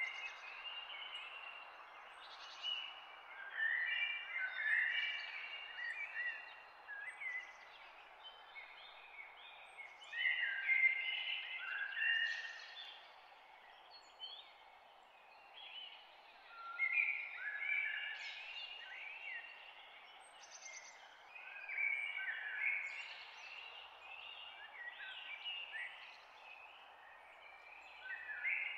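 A songbird singing phrases of several quick whistled notes, one to two seconds long and repeated every five or six seconds, over a steady rushing background noise.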